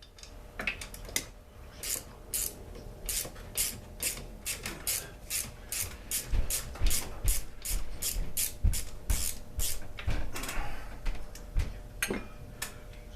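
Hand tool working at the cylinder head fasteners of a Poulan Pro two-stroke chainsaw during teardown: a run of short rasping strokes, about three a second, which pauses shortly before the end and resumes briefly.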